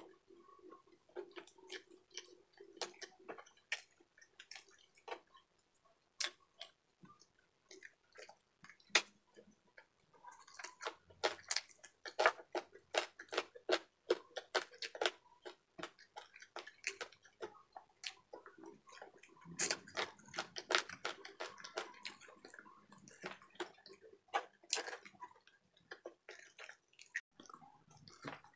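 Close-up mukbang eating sounds: wet chewing, lip-smacking and mouth clicks from eating saucy chicken adobo off the bone by hand. The clicks come sparsely at first, then thick and fast in two spells from about ten seconds in.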